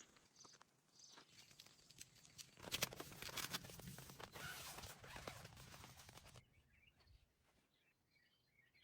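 Faint rustling with small clicks and crackles, louder for a few seconds in the middle, then near silence.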